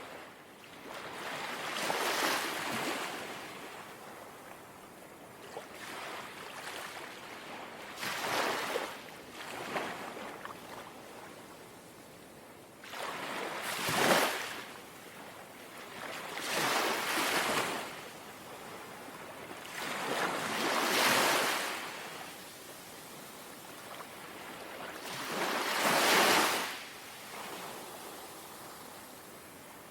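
Calm sea waves lapping: about seven soft washes that each swell and fade every three to six seconds, with a low hiss of water between them.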